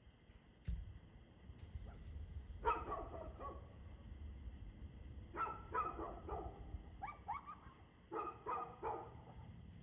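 A dog barking in four bursts of three to five quick barks each, some short and rising in pitch like yips. A steady low rumble runs underneath from about a second in.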